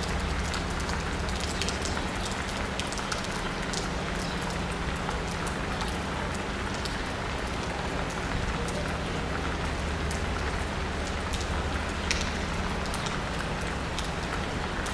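Steady rain falling on asphalt and rooftops, with many single drops pattering close by, over a low steady hum.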